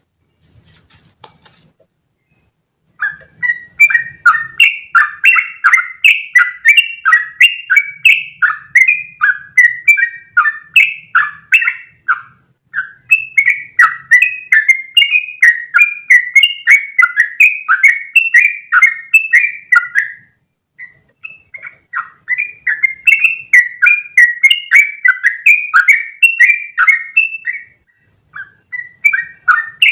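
Trucukan (yellow-vented bulbul) singing long runs of quick, repeated chattering notes, several a second. This is the long continuous 'ropel' song. It starts about three seconds in and pauses briefly twice.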